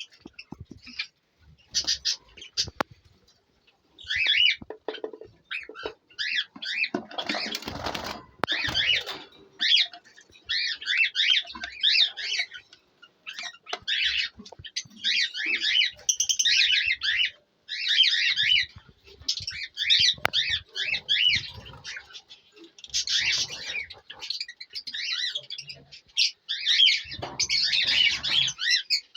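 Mixed aviary birds, lovebirds, java finches and cockatiels among them, chirping and chattering in quick high-pitched clusters almost without pause. A brief rustle sounds about eight seconds in.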